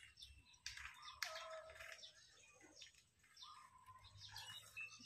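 Near silence, with faint scattered bird chirps and short whistles.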